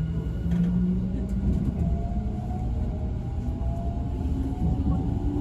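Nankai 50000 series electric train running, heard inside the carriage: a steady rumble of wheels on rail. In the second half a faint whine rises slowly in pitch.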